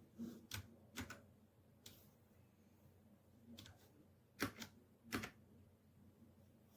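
Scattered sharp clicks and taps, about seven at irregular intervals, the two loudest close together near the end.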